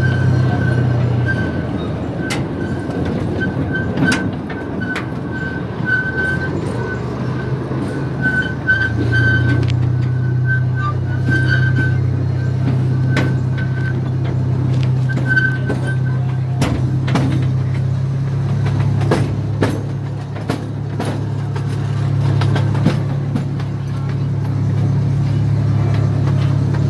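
Miniature park train running: a steady low engine drone that shifts in pitch twice, with scattered clacks from the wheels on the track. A high, wavering squeal comes and goes through the first half.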